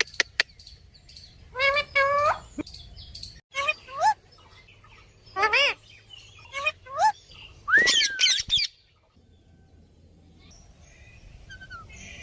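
Cockatiel calling: a string of short chirps and whistled calls that swoop up and down in pitch, with a few sharp clicks at the start. The calls stop about nine seconds in.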